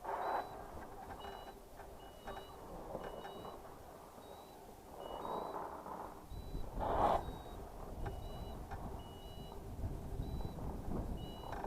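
Faint reversing beeper: short high electronic beeps at two alternating pitches, repeating unevenly, over a low rumble that swells once about seven seconds in.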